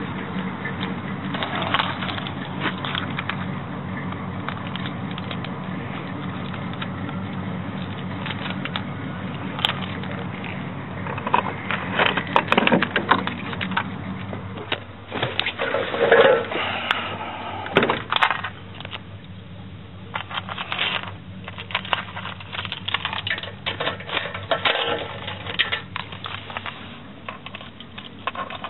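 An engine running steadily, with irregular crackling and knocking over it that grows busier from about halfway.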